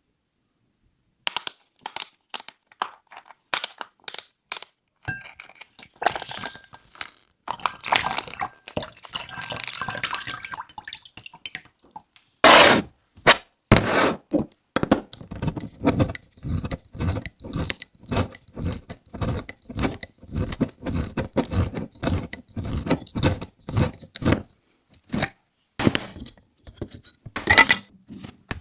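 A run of sharp clicks and knocks, sparse at first, then coming about two a second from about halfway through.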